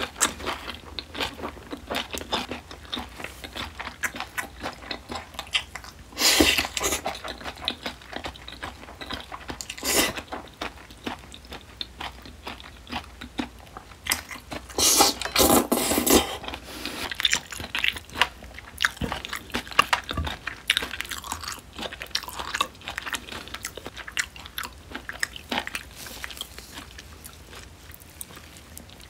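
Close-miked chewing and biting of smoked duck and spicy seasoned oysters, steady wet mouth clicks throughout. A few louder bursts of biting stand out, the loudest about halfway, as a chopstick load of the seasoned oysters goes in.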